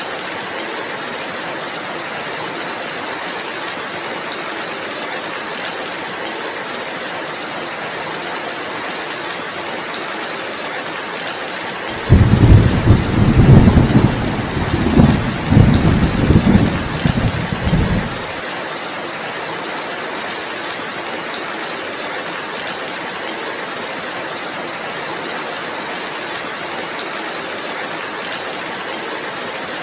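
Steady heavy rainfall with a loud, low roll of thunder about twelve seconds in that rumbles for about six seconds and cuts off abruptly.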